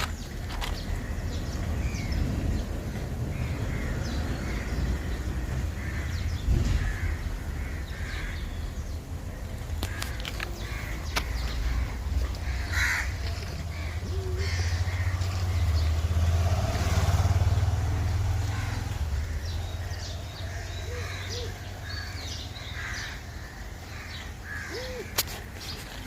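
Outdoor ambience: a steady low rumble, swelling in the middle, with scattered short bird calls.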